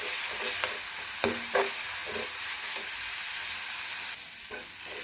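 Spiced onion-tomato masala sizzling in hot oil in a kadai, stirred with a perforated steel spatula that scrapes and clicks against the pan a few times.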